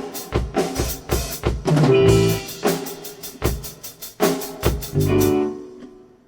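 Live rock band playing an instrumental passage, with drum kit hits over bass and keyboard/guitar chords. The band stops a little after five seconds in and the last sound rings away.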